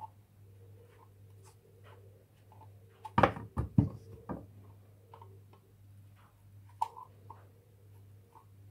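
Light taps and scrapes of metal on lead as the edge of a lead vase's base is worked round, with a cluster of several louder knocks about three seconds in. A low steady hum runs underneath.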